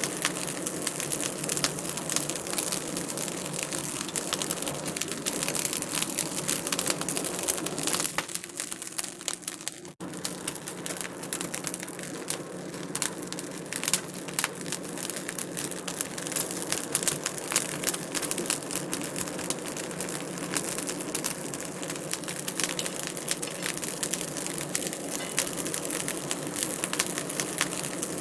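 Wood fire in a fireplace crackling and popping, a dense run of small sharp snaps over a soft rushing hiss. It goes briefly quieter about eight seconds in and cuts out for an instant near ten seconds before the crackle resumes.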